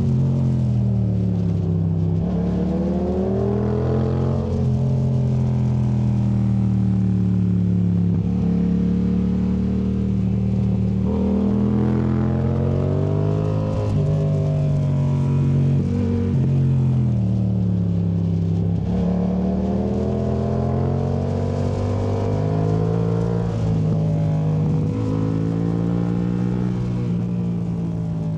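A 2019 Yamaha MT-07's parallel-twin engine through a Yoshimura AT2 Race exhaust, on and off the throttle through a run of bends: the pitch climbs under acceleration and sinks as it backs off, over and over, with a few sudden drops in pitch. It grows a little quieter near the end.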